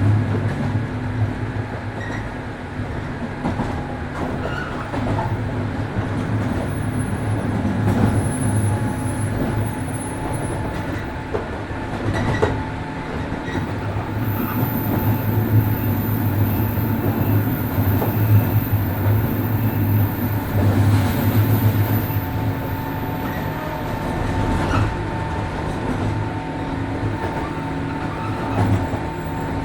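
Onboard running sound of a JR Kyushu 103 series 1500 subseries electric train: a steady low rumble from the wheels and traction equipment, with a sharp wheel click over a rail joint now and then and a thin, very high whine through the middle.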